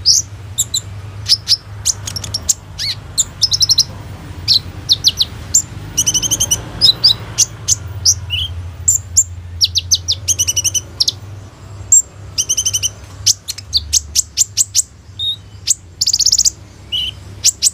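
Kolibri ninja sunbird singing: a rapid series of sharp, high chirps and fast trills of repeated notes, its song packed with phrases mimicked from other birds.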